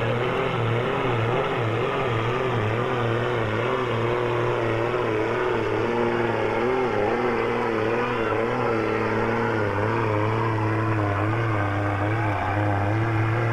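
Gasoline pulling truck's engine running hard at high, steady revs under load, its pitch wavering up and down.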